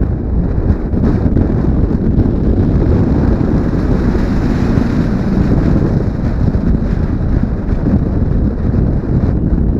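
Heavy wind buffeting on a helmet-mounted action camera on a moving motorcycle, a steady loud rush that swamps the engine, swelling somewhat in the middle.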